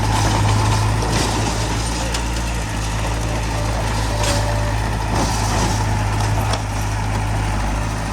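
Heavy diesel machinery engine running steadily, with a few short noisy bursts over it.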